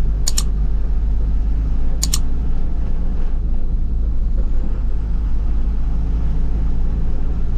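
Manual-gearbox vehicle cruising in fourth gear: a steady low engine and road rumble. Twice in the first few seconds a short, sharp double click sounds over it.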